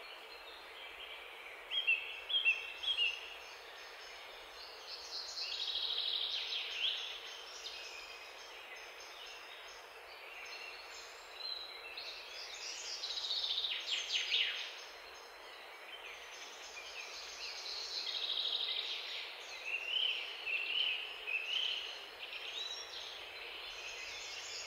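Songbirds chirping and singing in repeated short phrases of chirps and trills, over a steady hiss.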